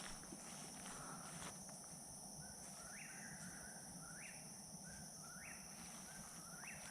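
Eastern whip-poor-will singing, its phrase repeated four times about a second apart starting about two seconds in, over a steady high drone of night insects.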